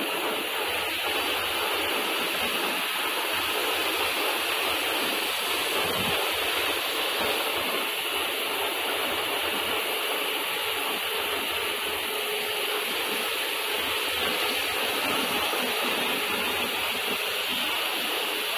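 Automatic car washing machine spraying water during a trial run: a steady hiss of water spray that does not change.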